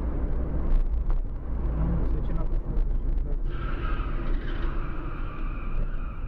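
Heavy, steady low rumble of a moving vehicle's road and wind noise. A higher, voice-like sound joins it about three and a half seconds in.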